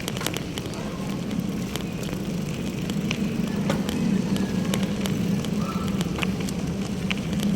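Street traffic: a steady low hum of passing vehicle engines under a general road noise, with scattered small clicks, growing slightly louder toward the end.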